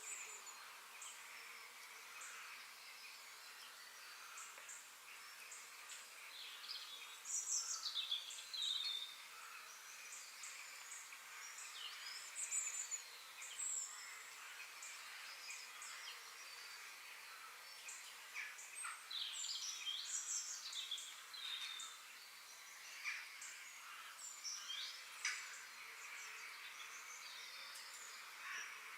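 Several birds chirping and calling in short, scattered notes and quick slides in pitch, over a steady high hiss of background ambience.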